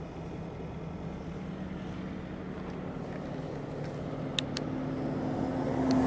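Heavy tow truck's diesel engine running steadily, growing gradually louder, with two sharp clicks about four and a half seconds in.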